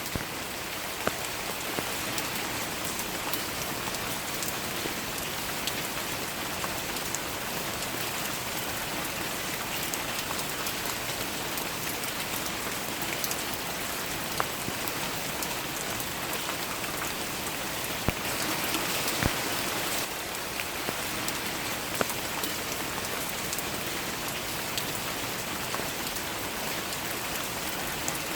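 Steady rainfall pattering on leaves and flower petals, a continuous hiss broken by scattered louder individual drop hits.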